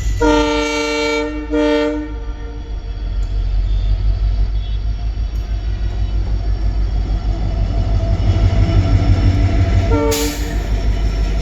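WDP4D diesel locomotive's horn sounding a blast of about a second and a second shorter one, the loco pilot's acknowledging honk. Then the steady low rumble of the shunted train moving on the rails, growing louder, with one brief horn toot near the end.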